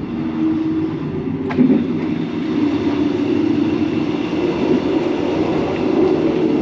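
Overnight sleeper train running, a steady low rumble with a sharp click about one and a half seconds in.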